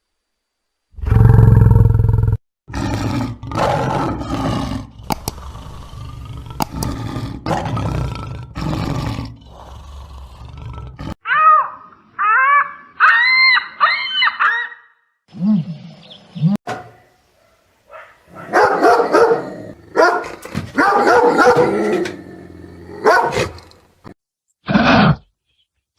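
A run of different animal calls, one after another. A loud, low roar comes about a second in, followed by rough calls for several seconds. Around the middle there is a burst of high cries that rise and fall, then short low calls and more rough calls near the end.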